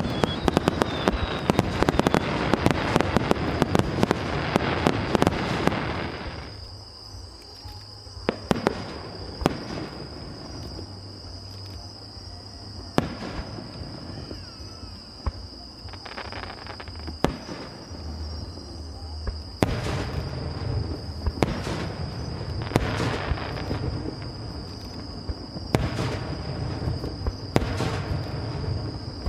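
Aerial fireworks bursting: a dense run of crackling and popping shells at first, then scattered single bangs, then dense crackle again from about twenty seconds in, with low booms under it.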